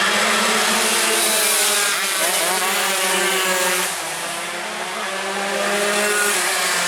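Several two-stroke racing motorcycles at high revs, their engine notes overlapping and rising and falling in pitch as they accelerate and shift, dipping a little about four seconds in.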